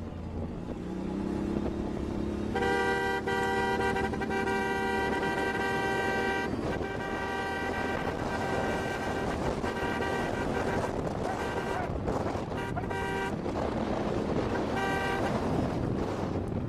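A horn held for about four seconds, then sounded again briefly near the end, over a steady rumble of engine and road noise.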